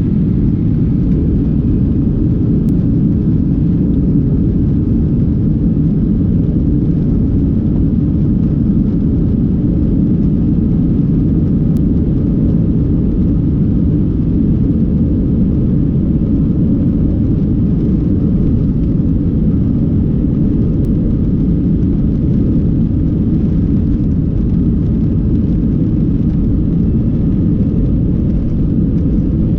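Airbus A319 airliner noise heard inside the cabin: a loud, steady low rumble of the jet engines and airflow that holds level throughout.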